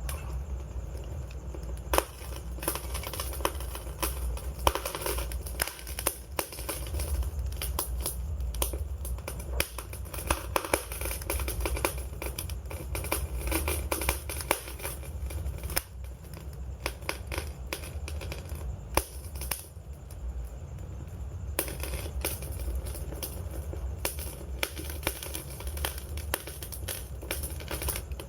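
Wood fire crackling, with dense irregular pops and snaps over a steady low rumble of the flames.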